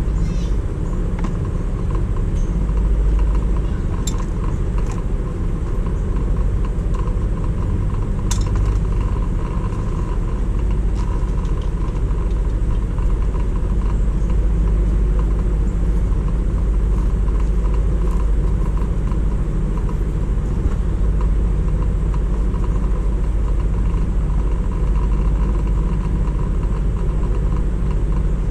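A motor vehicle engine running steadily with a low rumble, with a few light clicks.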